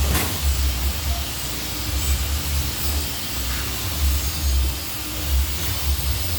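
CNC pipe-bending machine running: a steady hiss over a low, uneven rumble, with a sharp click right at the start.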